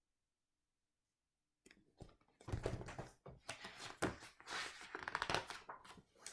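Paper rustling and crackling as the pages of a picture book are handled and turned, with irregular crinkles over a few seconds after a near-silent start.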